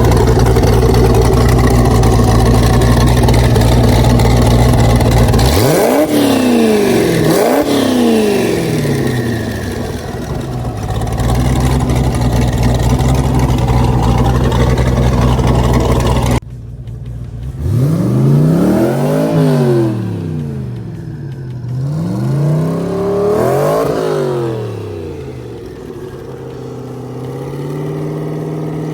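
Twin-turbo 4.8-litre LS V8 of a Factory Five GTM idling steadily, then blipped twice in quick succession about six seconds in before settling back to idle. After a sudden cut it is revved up and down twice more, with another rev starting near the end.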